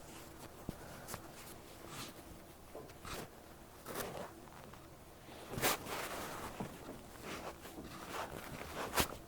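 Cotton pad wiping and rubbing over an ear in an ear-disinfecting step: soft, irregular rustling strokes with small clicks. The strongest swish comes a little past halfway, and a sharp click comes near the end.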